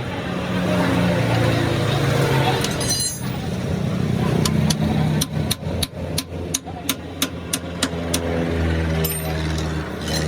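A run of sharp, evenly spaced metal knocks, about three a second, for a few seconds in the middle, with brief metallic ringing just before and after, over a steady engine or machine hum.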